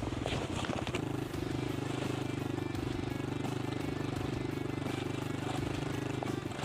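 Suzuki DR650's single-cylinder four-stroke engine running steadily at an even, unchanging speed, with a few clicks about half a second in.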